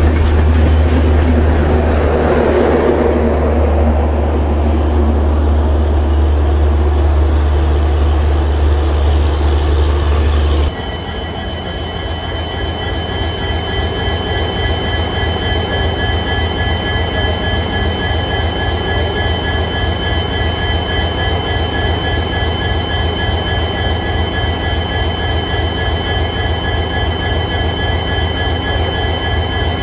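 Train passing close by, with a heavy steady low rumble. About eleven seconds in the sound changes abruptly to a train running past with a fast, regular clatter and steady high-pitched tones, like wheel squeal.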